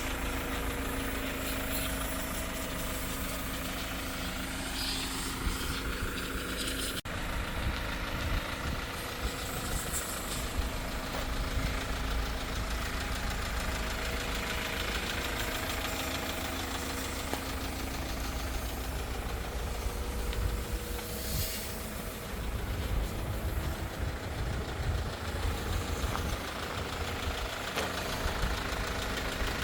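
Hyundai Porter II truck's four-cylinder diesel engine idling steadily.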